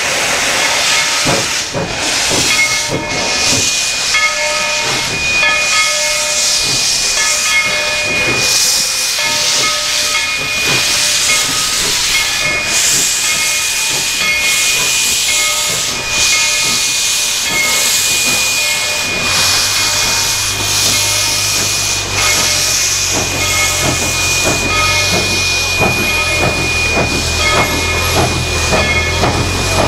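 Steam locomotive hissing steam, with a thin steady high tone over the hiss and scattered irregular clicks. A low steady hum joins about two-thirds of the way in.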